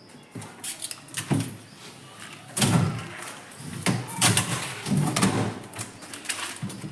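Irregular knocks, clunks and rattles of a refrigerator door and its fittings being handled while the door is taken off.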